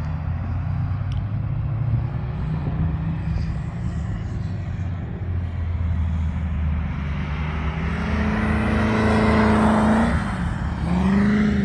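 Cars lapping a race circuit: a steady engine drone throughout, with one car's engine rising in pitch as it accelerates past, loudest about nine to ten seconds in, and another engine note swelling near the end.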